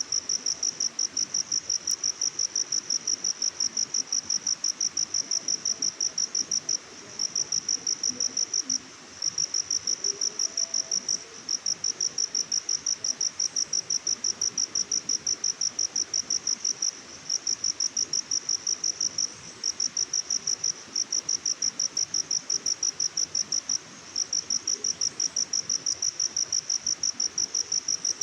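Cricket chirping: a long train of rapid, evenly spaced high-pitched chirps, broken by a few short pauses, over a faint hiss.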